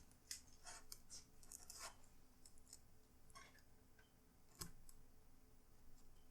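Faint clicks and scrapes of plastic laptop parts being handled and pressed together, with a sharper click about four and a half seconds in.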